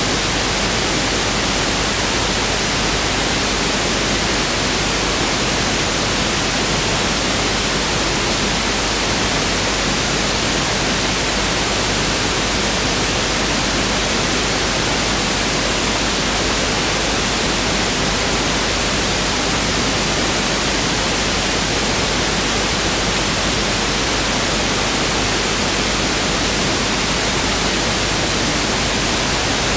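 Pink noise test signal (1/f noise): a steady, even hiss spread across the whole frequency range, unchanging throughout.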